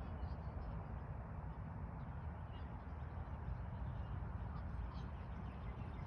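Wind noise buffeting the microphone, with a few faint, short bird calls now and then.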